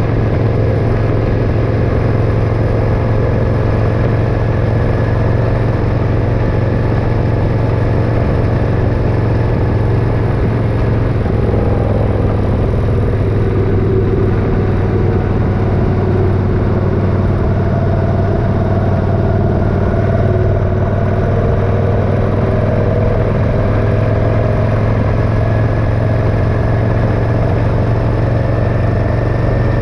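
Motorcycle engine running steadily with a loud, even drone, its pitch shifting slightly partway through.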